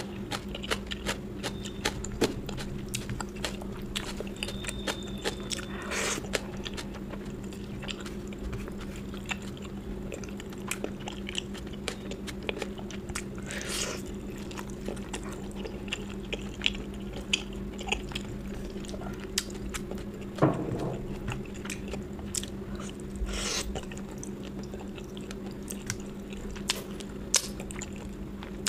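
A person eating close to the microphone: steady chewing and biting with many small mouth clicks and a few louder crunches.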